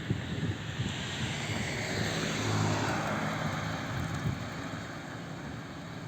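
A vehicle passing by, its noise swelling to a peak about two and a half seconds in and then fading away.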